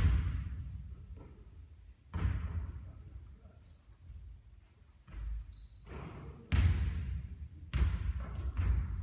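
Basketball bouncing on a court in a series of heavy thumps, about six at irregular intervals, each trailing off in an echo.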